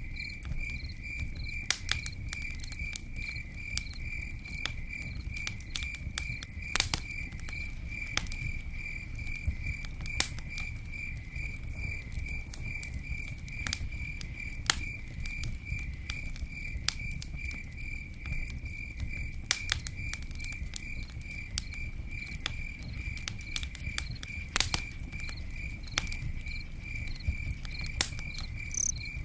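Campfire crackling, with sharp pops scattered irregularly over a low rumble; the loudest pops come about 7 and 24 seconds in. A cricket chirps steadily throughout, a few even pulses a second.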